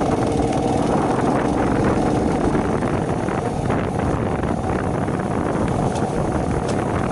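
Shineray 50cc motorcycle engine running steadily while riding, with wind buffeting the microphone.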